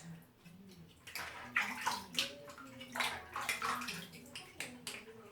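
Hands sloshing and splashing in a basin of water while washing plastic Lego pieces, in irregular short splashes with the pieces knocking together.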